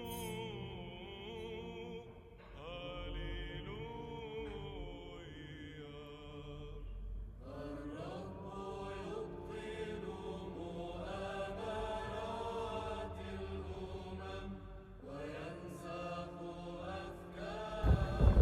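Slow chanted vocal music with long held notes that waver slightly in pitch.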